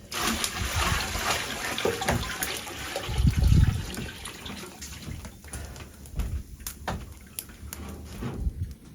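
Liquid running or pouring for about four seconds, with a heavy low thump about three and a half seconds in, then scattered knocks and clatter.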